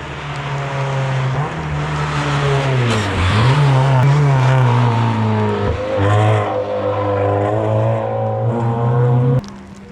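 Race car engine accelerating hard, revving up through gear changes: the pitch drops and climbs again about three seconds in and once more near six seconds. The sound cuts off suddenly near the end.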